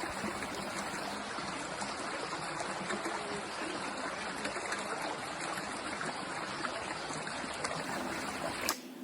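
Rainwater running in a steady, even rush of flowing water.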